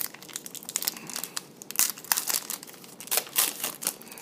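Foil trading-card pack wrappers crinkling as football card packs are handled: an irregular run of sharp crackles and rustles, loudest about two seconds in and again a little past three.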